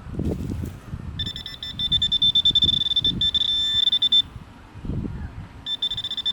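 Handheld metal-detecting pinpointer giving a steady, high electronic tone for about three seconds, then again briefly near the end, signalling metal in the dug spot, which here is junk iron and wire. Soft scraping and rustling of soil and grass sits underneath.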